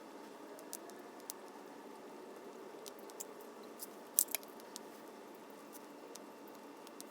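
Small wood campfire crackling, with scattered sharp pops and a louder double pop about four seconds in.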